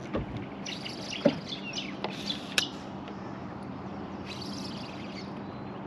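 Birds chirping and calling in short bursts over a steady low hum, with one sharp click a little past halfway.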